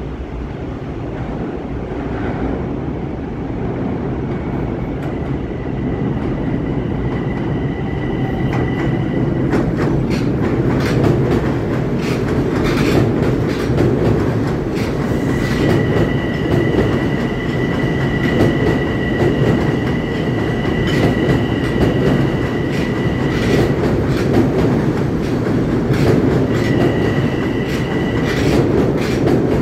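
Long Island Rail Road M7 electric multiple-unit train running through the station without stopping. A rumble builds over the first ten seconds, then the wheels click rapidly over the rail joints as the cars pass, with a high steady whine that comes and goes three times.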